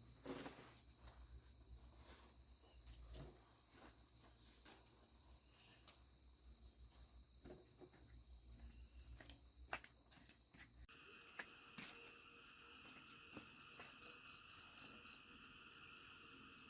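Faint chorus of crickets and other insects: several steady high-pitched trills, with scattered small clicks. About eleven seconds in, the mix of tones changes abruptly. Near the end, one insect gives a call of five quick pulses.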